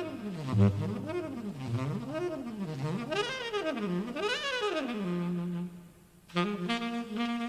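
Saxophone playing a jazz solo: quick runs sweeping up and down, then a held low note that breaks off about six seconds in, with long held notes following.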